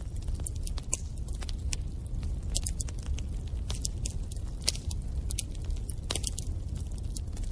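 Wood fire crackling in a fireplace: a steady run of irregular sharp pops and snaps over the low rumble of the flames, with one louder pop about halfway through.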